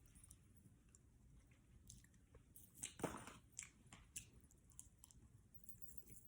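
Faint chewing and biting on fried chicken, with a few short crisp crunches clustered about three seconds in.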